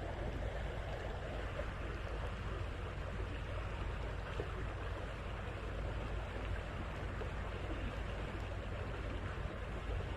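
Creek water running steadily: a constant rushing with no breaks.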